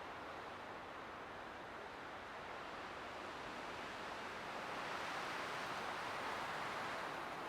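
Light wind blowing steadily, building into a stronger gust about five seconds in that eases off near the end.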